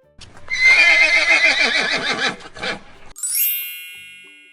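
A horse whinnying for about three seconds, its pitch wavering. It is followed by a bright high chime that rings out and fades.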